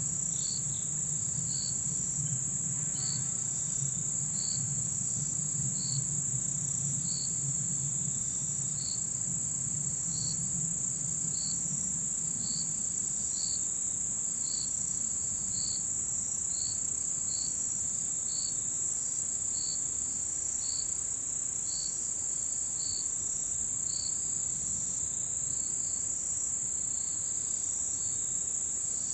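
Autumn insects singing in mountain forest: one steady, high, shrill trill runs throughout, and a separate, slightly lower chirp repeats about once a second. A faint low hum sits underneath for the first half and fades away.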